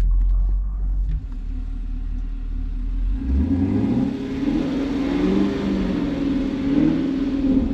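Camaro's LT1 V8 engine running at low revs, then revving up about three seconds in and holding at higher revs with a wavering pitch under throttle.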